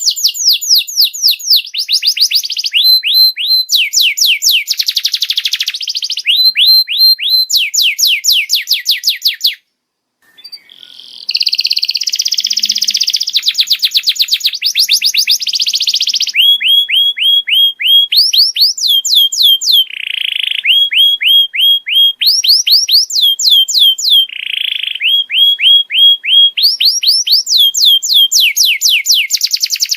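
Domestic canary singing: rapid trills of repeated downward-sweeping notes, switching to a new phrase every second or two. The song breaks off briefly about ten seconds in, then resumes.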